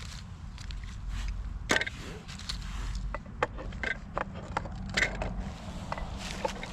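Footsteps crunching through dry leaves and twigs on a forest floor: a string of irregular crackles and snaps over a low steady rumble.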